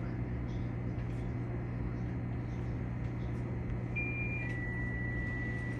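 Steady low hum of a Keikyu train standing at a platform. About four seconds in an electronic tone sounds: a short higher note, then a slightly lower one held for more than a second.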